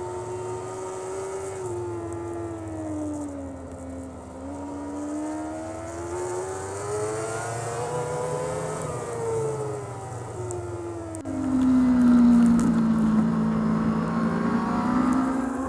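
Racing superbike engine heard from an onboard camera, its revs falling and rising through corners and gear changes. About eleven seconds in the note jumps abruptly louder and lower, then climbs again near the end.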